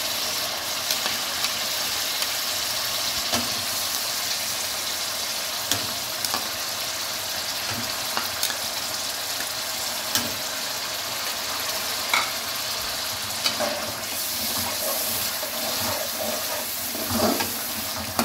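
Tomato-onion masala sizzling steadily in hot oil in a metal wok, with scattered light clicks as potato pieces are spooned in. Near the end a metal slotted spoon scrapes and stirs through the pan.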